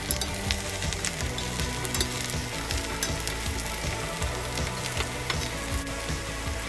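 Eggplant sticks sizzling in a hot pan as they are tossed and stirred, with many small crackles and pops.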